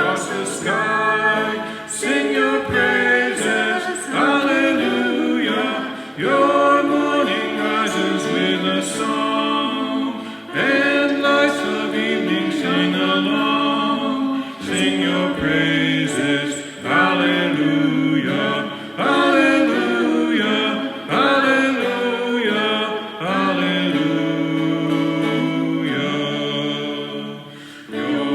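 Several voices singing together in harmony, unaccompanied, in phrases of a few seconds each.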